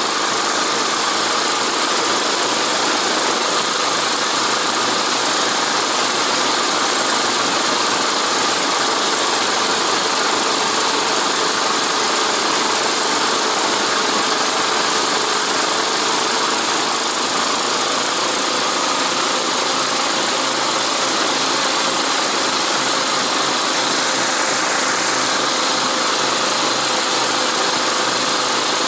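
Motorized snow dog (small tracked towing unit) engine running steadily under way, with a constant engine note whose pitch creeps up a little past the middle.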